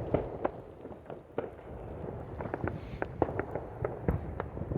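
Distant fireworks going off in many directions: many irregular sharp pops and cracks over a low rumble.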